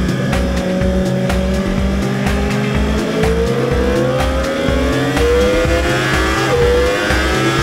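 Yamaha YZF-R1 crossplane inline-four engine heard onboard, accelerating hard out of a corner with a rising note, a sudden drop at an upshift about six and a half seconds in, then rising again. Background music with a steady beat plays underneath.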